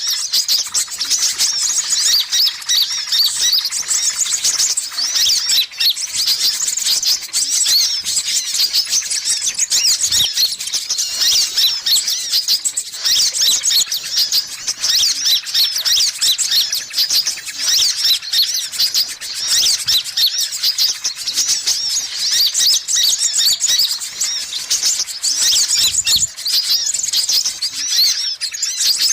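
Sunbirds chattering and twittering without pause: a dense run of fast, high-pitched chirps and trills from more than one bird at once, as played in a bird-lure recording.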